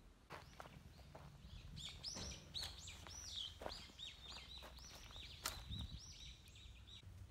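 A small bird singing a rapid run of short, high chirps, starting about two seconds in and stopping near the end. A few faint knocks come between them, the sharpest about five and a half seconds in.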